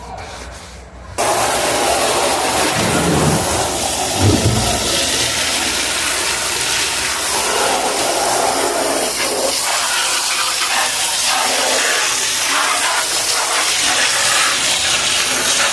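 Water running hard and splashing, starting suddenly about a second in and carrying on steadily.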